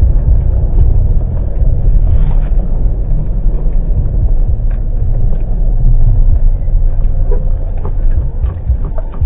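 Steady low rumble of a vehicle on the move, heard from on board.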